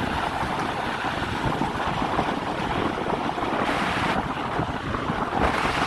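Wind rushing over the microphone of a camera carried on a moving bicycle: a steady, unbroken rumble and hiss.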